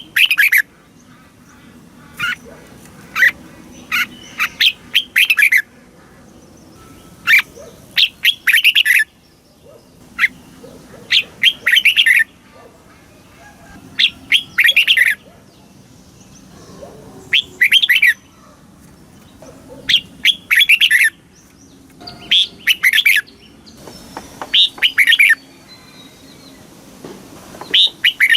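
Red-whiskered bulbul singing: short phrases of quick, clear, warbled notes, repeated every two to three seconds.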